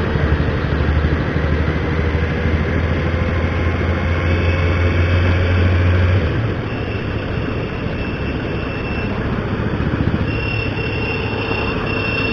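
Motorcycle engine running, with wind and road noise rushing past while riding. The engine's deep hum drops off about six seconds in. A thin high tone sounds on and off in the second half.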